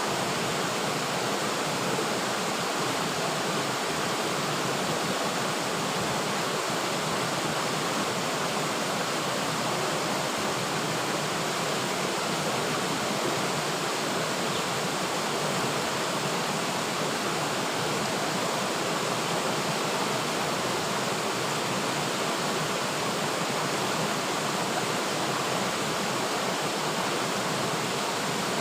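River water flowing steadily, an even rushing noise that does not change.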